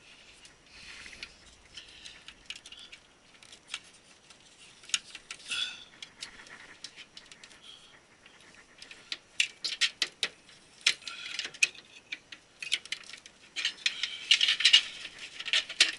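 Cables and connectors being handled and plugged in inside a server case: scattered sharp plastic and metal clicks and rattles with rustling. The clicks come thickest about nine to eleven seconds in, and there is a louder burst of rustling and clicking near the end.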